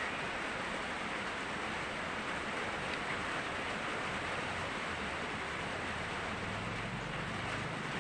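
Heavy rain falling as a steady, even hiss, with a faint low hum joining in near the end.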